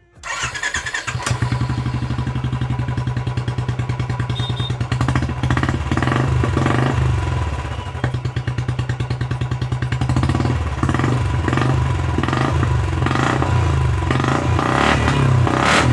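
Royal Enfield Classic's single-cylinder engine running through a newly fitted aftermarket exhaust silencer, a steady beat of firing pulses that swells as the throttle is opened a little in the second half.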